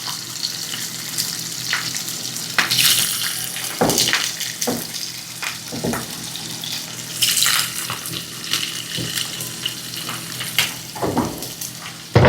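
Sliced sausage frying in oil in a clay cazuela, sizzling and crackling with sharp pops now and then, the spattering caused by water in the oil.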